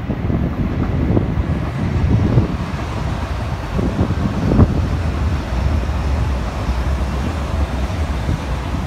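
Red-and-white electric passenger train rolling past with a steady low rumble, mixed with gusty wind buffeting the microphone.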